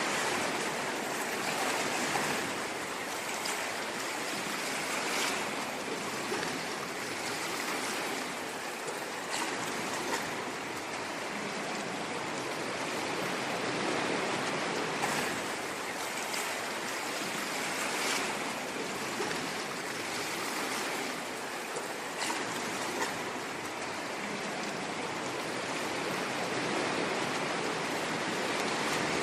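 Ocean waves washing in: a steady hiss of surf that swells and eases every few seconds, with a few faint short ticks of foam and spray.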